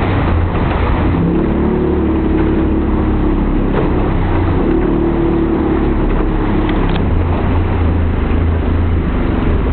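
Motorboat engine running steadily under way, a continuous drone with no change in pitch.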